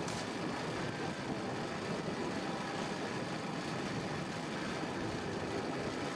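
Jet aircraft engines running, a steady even roar with faint whining tones.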